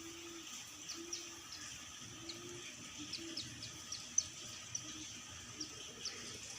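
Mountain white-eyes giving short, sharp, high chirps at irregular intervals, the loudest about four seconds in: two males calling as they fight.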